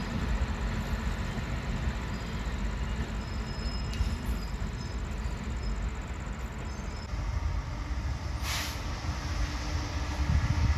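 A train running on the tracks, a steady low rumble, with a short hiss about eight and a half seconds in.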